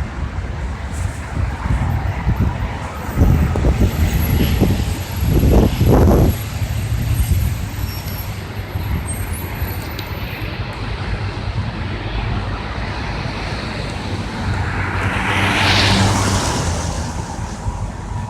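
Steady low outdoor rumble with traffic noise: the strange, unexplained sound heard across the city. Louder swells come about three and six seconds in, and a rush rises and falls around fifteen to seventeen seconds.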